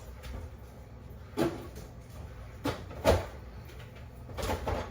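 Four separate knocks and bumps of household objects being handled, about a second apart, the loudest a little past the middle.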